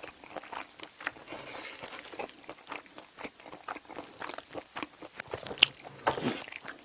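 Close-miked chewing of a mouthful of stir-fried octopus and rice: rapid, irregular wet smacks and clicks, with a few louder smacks about five to six seconds in.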